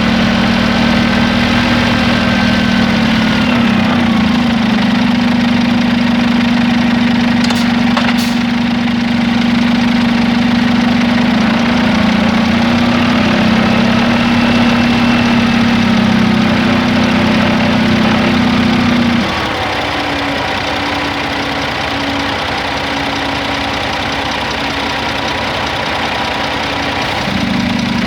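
Scania G450 truck's six-cylinder diesel engine idling steadily. Its drone drops lower about two-thirds of the way through and comes back near the end, with two short clicks about eight seconds in.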